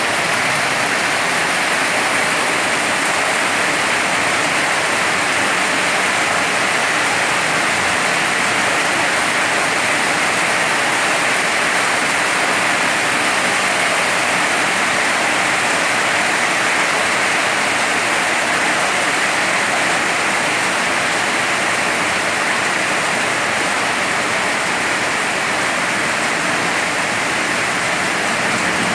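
Heavy rain falling steadily, an even, loud hiss of downpour.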